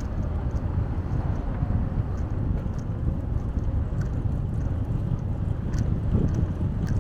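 Wind buffeting the microphone and rumble from a moving bicycle, steady throughout, with scattered light ticks.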